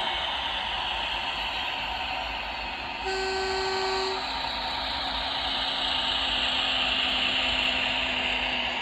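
Sound decoder of a Hornby OO gauge GWR Hitachi Class 800 bi-mode model playing its running sound, with one short horn blast of about a second about three seconds in. The running sound grows louder and brighter near the end.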